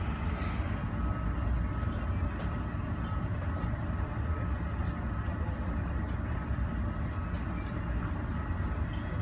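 Steady low rumble of airport apron noise with a faint, even whine above it. No single event stands out.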